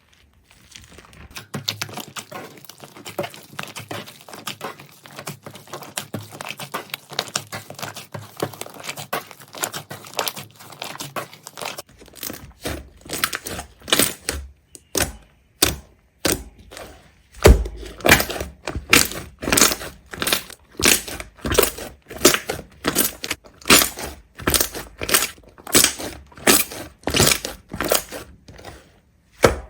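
Close, crisp crackling and crinkling for about ten seconds, then a regular run of sharp crunches, roughly one and a half a second, as something brittle is crushed or cut.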